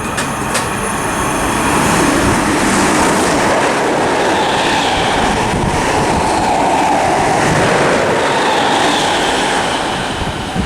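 A twelve-coach train of three Greater Anglia Class 321 electric multiple units passing through the station without stopping: a loud, steady rush of wheels on rail that swells a little in the middle as the coaches go by.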